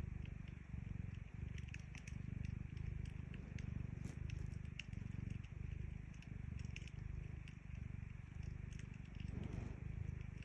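Domestic cat purring, a low rumble that swells and dips with each breath, with a wood fire crackling in scattered sharp pops.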